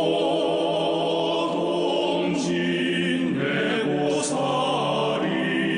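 A singer performing a Korean-language song with long, held notes over musical backing.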